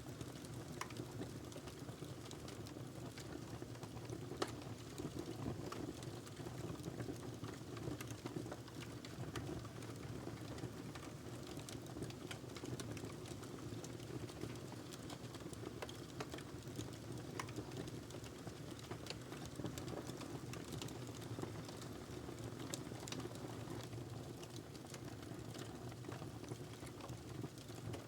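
Fireplace fire crackling: irregular small snaps and pops over a steady low rumble of burning, with one sharper pop about four seconds in.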